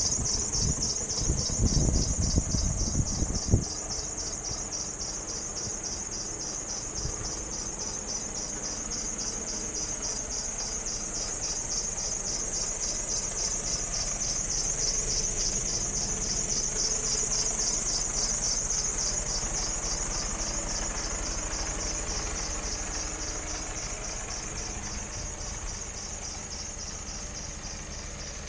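Mercedes-Benz Actros 2551's straight-six diesel engine cranking and catching in the first few seconds, then idling steadily. A high, fast-pulsing chirp runs over it throughout.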